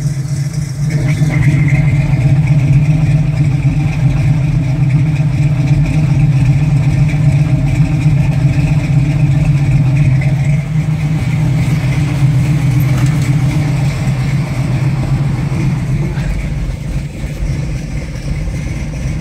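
Big-block V8 of a 1972 Chevrolet Nova idling steadily in cold weather, a few minutes after starting.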